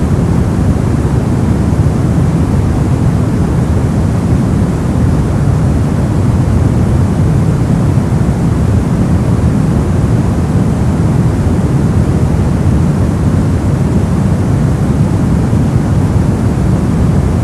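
Brown noise: a steady, deep rushing hiss, strongest in the low end and dark in the highs, with no changes or events.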